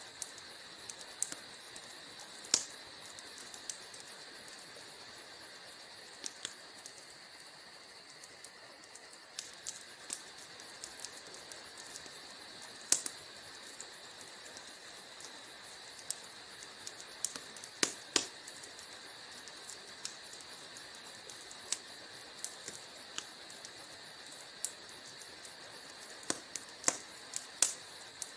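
Wood fire crackling in a fireplace: irregular sharp pops and snaps over a steady soft hiss, a few of them much louder than the rest.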